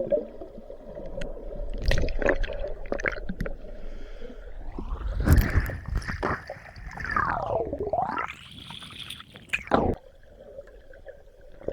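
Muffled underwater sounds with bubbling and knocks. Through the middle, a pitched tone rises, holds, dips and rises again before cutting off suddenly, which fits a metal detector's audio tone answering a target as the coil sweeps over it.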